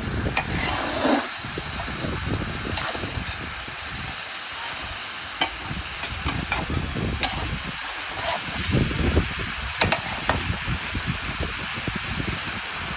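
Meat frying in a pan with a steady sizzle, broken by occasional sharp clicks.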